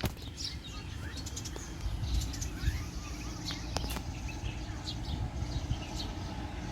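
Small birds chirping here and there over a steady low rumble, with a few sharp clicks.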